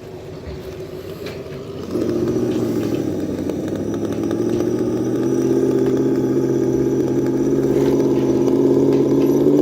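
Simulated V8 engine sound played by an ESS-Dual sound module's speaker on an RC rock crawler, following the throttle. It is quieter for the first two seconds, then turns suddenly louder at about two seconds as throttle is applied, and holds a steady engine note that steps slightly higher in pitch about five seconds in.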